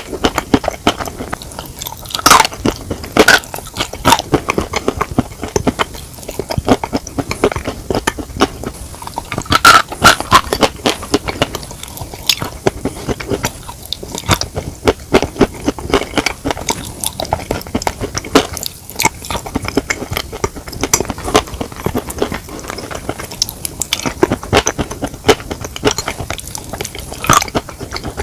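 Close-miked eating of chicken: continuous chewing and biting with dense, irregular crunchy clicks, a few louder bites standing out about two, three, ten and twenty-seven seconds in.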